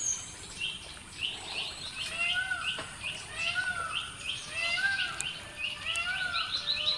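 Birds calling: rapid short high chirps throughout, joined about two seconds in by a repeated short arched call, roughly one to two a second.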